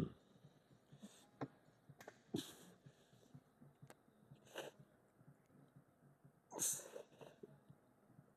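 A person breathing hard: several short, breathy exhales at uneven intervals, the strongest near the end, with a few faint clicks between.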